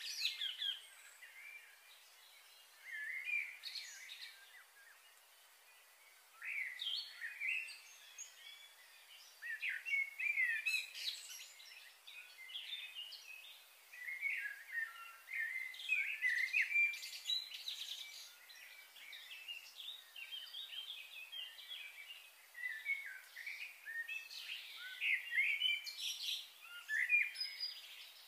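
Small birds chirping and twittering in the trees, in quick high-pitched flurries that come and go every few seconds over a faint steady hiss.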